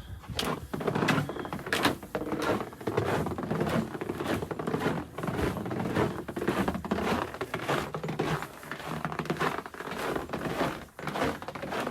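Footsteps in snow, an uneven run of short crunching steps as someone walks along.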